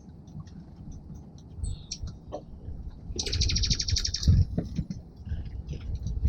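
Small songbirds calling at a feeder: scattered short high chips, and about three seconds in a rapid trill of evenly spaced notes lasting about a second. A low rumble with a few knocks runs underneath.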